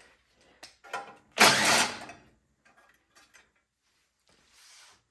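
Light clicks, then one brief rasping, ratchet-like scrape of about half a second, then a few faint ticks: hand tools and metal parts being worked during disassembly of a small engine.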